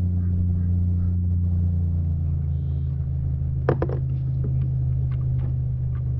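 Steady low electric motor hum, like a kayak's trolling motor running, with a brief clatter about three and a half seconds in.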